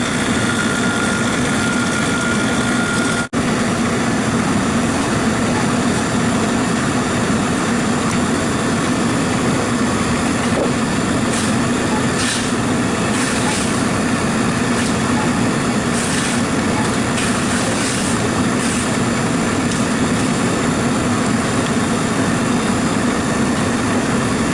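Steady mechanical running noise with a low hum, broken by a brief dropout about three seconds in.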